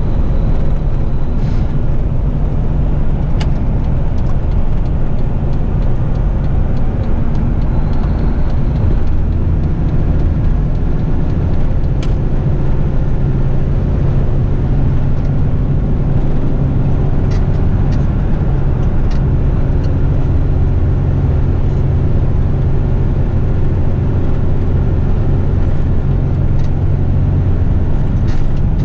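The engine of an eight-wheel twin-steer front-lift garbage truck running, heard from inside the cab as a steady low drone, with a few faint clicks.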